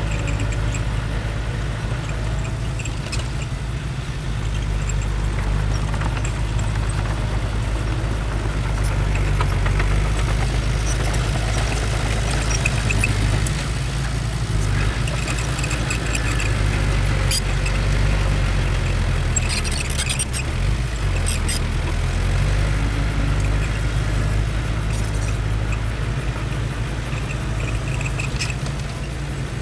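Bulldozer's heavy diesel engine running steadily with a deep, even hum, with a few sharp metallic clanks about two-thirds of the way through.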